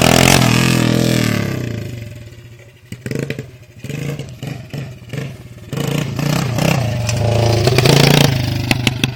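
Dirt bike engine revving: loud at first, then falling in pitch and fading about three seconds in. Short throttle blips follow, then it rises and runs loud again near the end.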